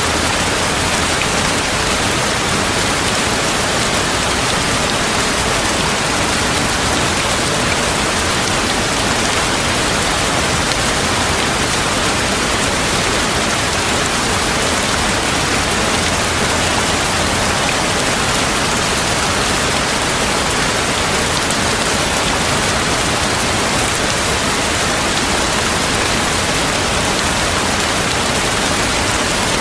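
Steady heavy rain falling, an even unbroken hiss with no thunder.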